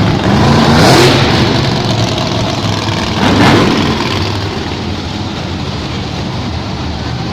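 Monster truck engine revving in two loud surges, about a second in and again about three and a half seconds in, then settling into steadier running.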